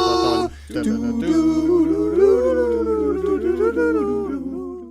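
A man humming a slow, wordless melody that stands in for the film's closing music. The tune breaks off briefly about half a second in, then carries on in long held notes and fades out near the end.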